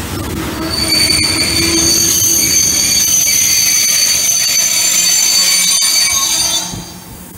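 Freight train of tank wagons rolling past, its wheels squealing in several steady high-pitched tones over the rumble of the wagons. The sound drops away near the end.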